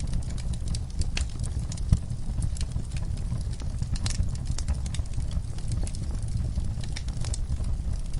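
Wood fire crackling, with irregular sharp pops over a steady low rumble of the flames; one pop about two seconds in stands out.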